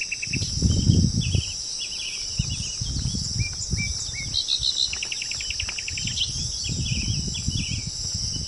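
Several wild birds chirping, with a fast rattling trill about five seconds in, over a steady high drone of insects. Bouts of low rumble come and go underneath.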